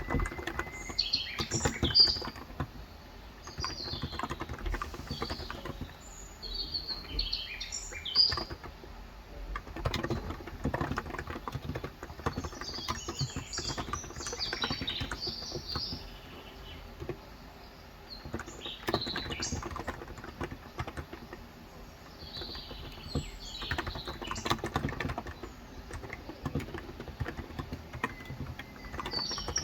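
Typing on a COX Endeavor electrostatic-capacitive (contactless) tenkeyless keyboard with 35 g switches, keystrokes running in bursts with a short lull near the middle. Small birds chirp outside in repeated short bursts of high notes.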